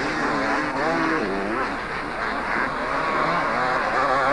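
Several two-stroke motocross motorcycles racing, their engines revving up and down with pitch rising and falling as they accelerate and ease off around the track.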